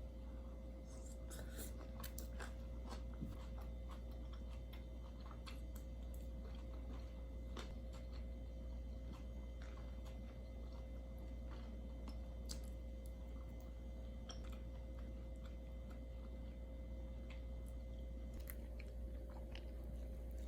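A person chewing and biting food, with scattered light clicks, over a steady low hum.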